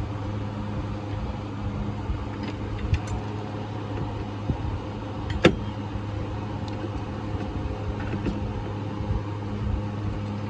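Toyota 1ZZ four-cylinder engine idling steadily, with a few light clicks and one sharp knock about halfway through.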